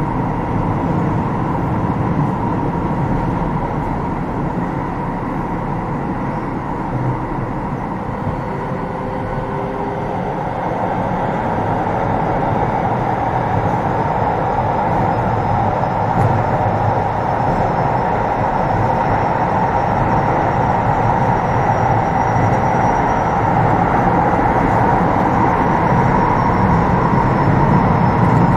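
Running sound inside a Keio 7000 series electric train car at speed: a steady rumble of wheels on rail. In the second half a faint high tone drifts slowly up in pitch and back down, and the sound grows a little louder near the end.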